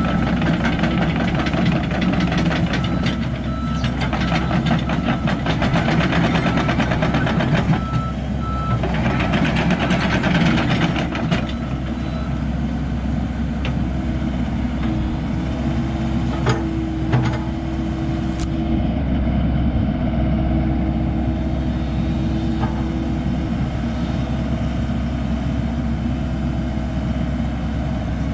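Komatsu PC78US-10 excavator's diesel engine running, with a dense rattle over it and its warning alarm beeping steadily for about the first twelve seconds; the beeping and rattle then stop while the engine keeps running.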